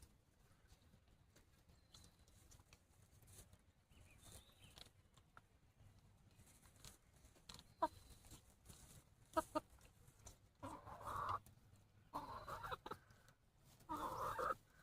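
Chicken clucking: one short cluck, then three quick ones, then three longer, louder calls in the last few seconds.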